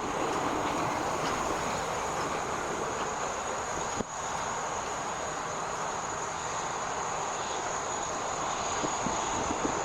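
Jet airliner engines running with a steady rushing noise, broken by a brief dip about four seconds in.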